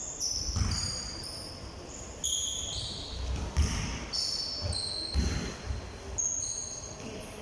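A ball bouncing on a hard floor in irregular low thuds, with short high-pitched squeaks in between.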